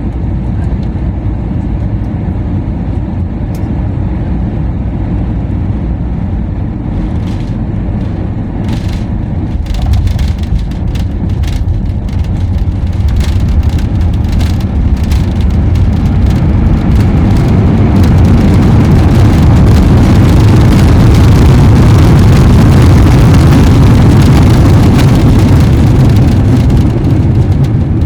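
Airliner cabin noise during landing: a steady engine and airflow rumble, with rattling clicks and a jump in level about ten seconds in as the wheels touch down. A broad roar then swells and peaks about twenty seconds in as reverse thrust and braking slow the aircraft, easing off near the end.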